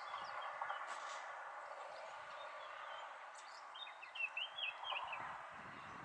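A small bird chirping, with a quick run of about five short chirps about four seconds in, over a steady, faint background rush.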